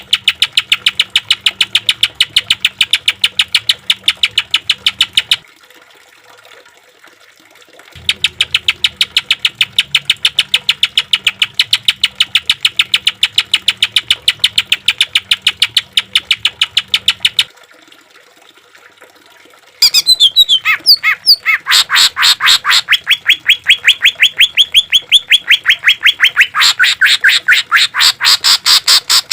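Green leafbird (cucak ijo) singing fast runs of sharp repeated notes, about seven a second, the rapid-fire 'tembakan' style. There are three runs with short pauses between them. The last, starting about twenty seconds in, shifts in pitch, dipping lower and then climbing higher.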